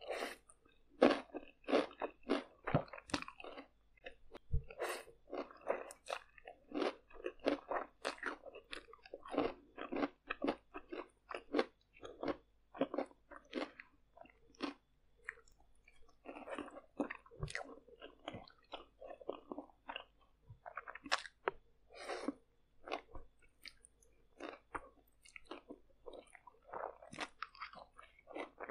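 A person chewing mouthfuls of stir-fried noodles with vegetables and fried egg, close to the microphone and done loudly on purpose: a dense, irregular run of short chewing and biting sounds, easing briefly about halfway.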